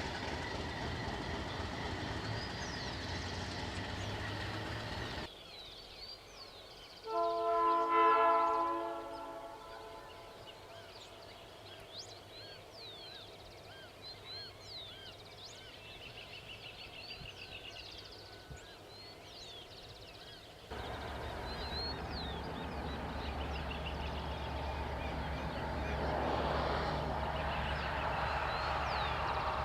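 Diesel freight locomotive running with a steady low rumble. It is followed by a quieter stretch with birds chirping, in which a multi-note locomotive air horn sounds once for about two seconds. Near the end the heavy diesel engine rumble returns and builds.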